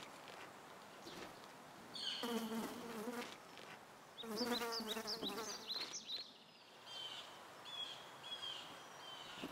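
A flying insect, a fly or bee, buzzing close by in two passes of about a second each. Birds chirp briefly in the background.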